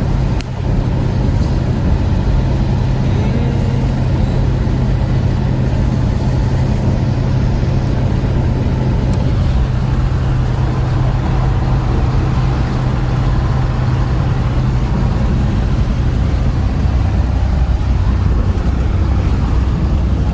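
Steady engine drone and road noise from inside a moving vehicle's cabin. The hum drops to a lower pitch near the end.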